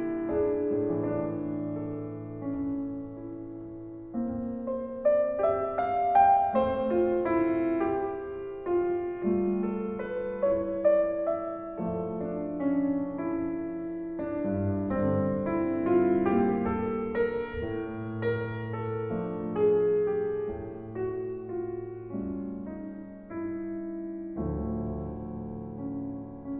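Solo piano music, a slow melody of struck notes over chords.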